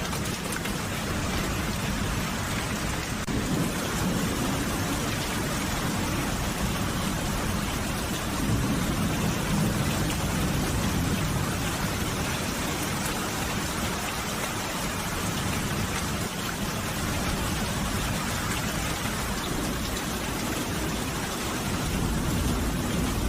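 Steady rain falling, an even hiss of drops, with a low rumble that swells and fades a few times.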